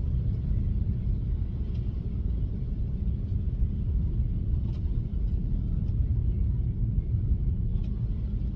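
Steady low rumble of a Tesla electric car's tyres on a snowy road, heard inside the cabin while driving, with a few faint ticks.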